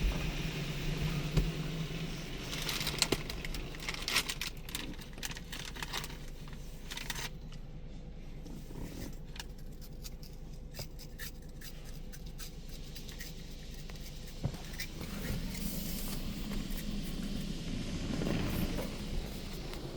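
Spray from a Belanger Kondor KL2 touchless car wash pattering and crackling on the car's body and windows, heard from inside the car, with dense bursts of droplet hits in the first half that thin out later.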